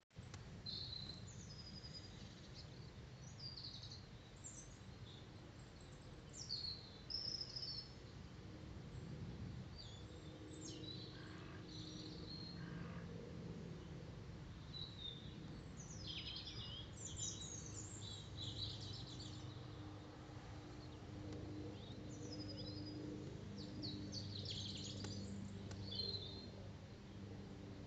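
Small birds chirping and singing off and on, over a faint, steady low hum of background noise.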